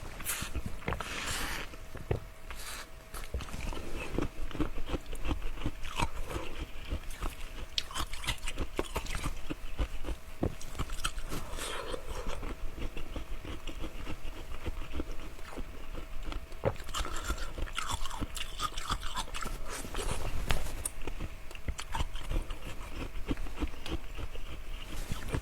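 Close-miked chewing of ice: a person bites and crunches through pieces, with many sharp, irregular crunches.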